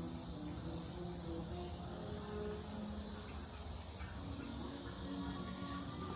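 Steady high-pitched insect chorus with a slight pulsing in it, with faint short tones lower down.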